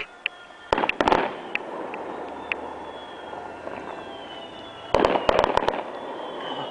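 Aerial fireworks at a display: two clusters of sharp bangs and crackles, one about a second in and another about five seconds in, with thin whistling tones between them.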